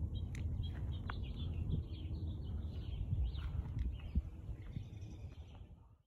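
Songbirds chirping, many short calls overlapping, over a low steady rumble; the sound fades out near the end.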